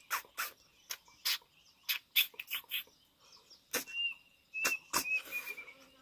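Close-up eating sounds: a dozen or so sharp, irregular clicks and smacks of a mouth chewing and crunching cooked food.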